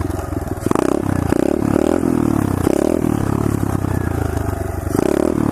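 SSR 125cc pit bike's single-cylinder four-stroke engine being ridden, its throttle opened and closed so the revs rise and drop back several times.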